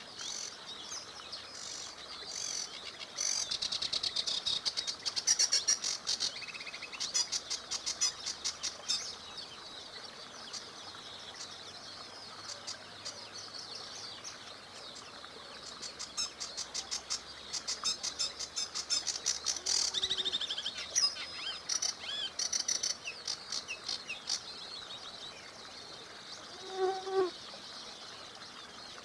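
Several songbirds singing, with quick high trills and chirps that come and go in bouts, and a short lower call near the end.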